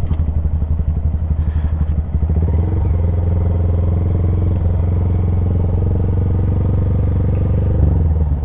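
Honda Grom's 125 cc single-cylinder engine, with an aftermarket Zoom Loop exhaust, running steadily at low revs while the bike rolls slowly.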